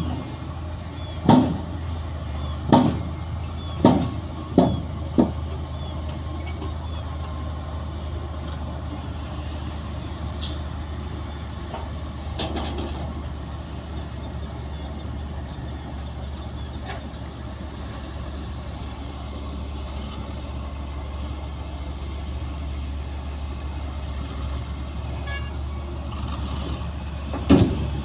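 Heavy diesel earthmoving machinery running steadily, with a quick series of loud knocks or bangs in the first few seconds and another near the end.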